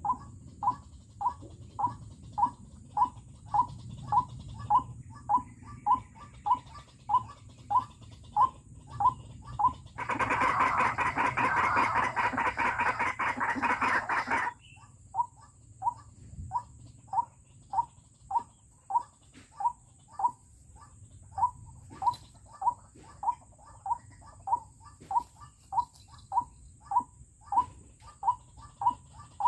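White-breasted waterhen (ruak-ruak) call, a short note repeated steadily about twice a second. About ten seconds in, a loud rustling noise drowns it for some four seconds, then the calling resumes.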